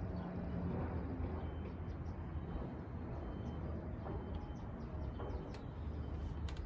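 Outdoor ambience: a steady low rumble like wind or distant traffic, with faint short bird chirps repeating throughout.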